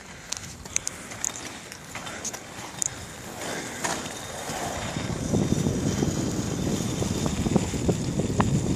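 Rolling rumble of bicycle tyres on pavement, growing louder about five seconds in, with a few small clicks near the start.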